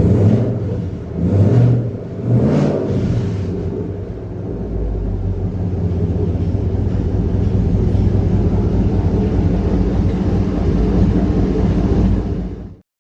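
Chevrolet K5's 5.3-litre V8 on its first start-up, revved in three quick blips and then settling into a steady idle. The sound cuts off abruptly near the end.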